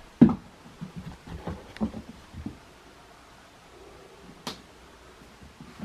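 A run of soft, short knocks and bumps in the first couple of seconds, then one sharp click about four and a half seconds in.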